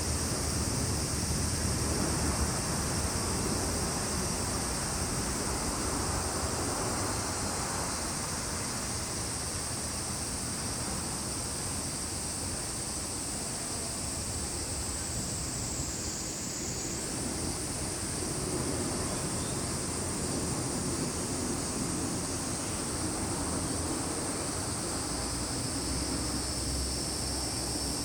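A chorus of summer insects making a continuous shrill drone. The pitch steps up slightly about two-thirds of the way through, and a second, slightly lower drone joins near the end. Beneath it runs a steady low rumble of background noise.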